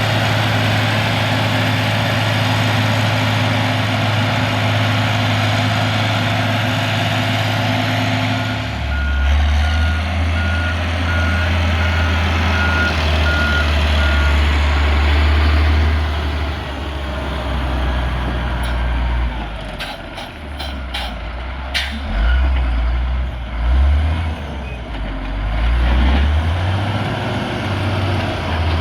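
Heavy diesel road-building machine running loudly. About nine seconds in, a reversing alarm sounds a run of short high beeps for about five seconds. In the second half the engine note rises and falls, with a few sharp knocks.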